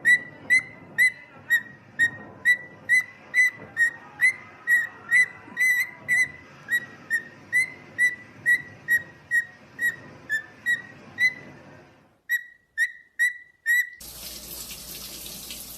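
A pet bird repeating one short whistled note over and over, about two a second, with a brief pause about twelve seconds in. Near the end a steady rushing hiss, like running water, starts.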